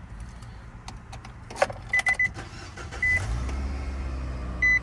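2019 Nissan NV van being started: a click as the key turns, a few short dashboard chimes, then the engine catches about three seconds in and settles into a steady idle, with another chime near the end.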